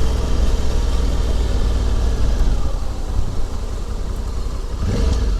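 Honda Africa Twin CRF1100L's parallel-twin engine running under way, a steady deep low rumble, a cool noise, easing slightly about three seconds in.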